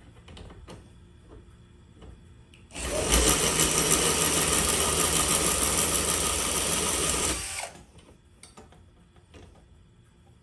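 Power drill running in one steady burst of about five seconds, starting a few seconds in and then stopping, with faint clicks and knocks of handling before and after.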